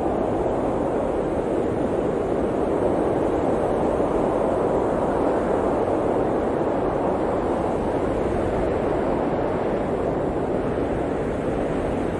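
Steady blizzard wind: a dense, continuous rushing noise that swells slightly a few seconds in.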